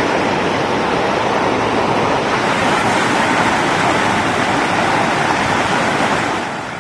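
Floodwater rushing fast along a submerged road: a steady, loud rush that fades out near the end.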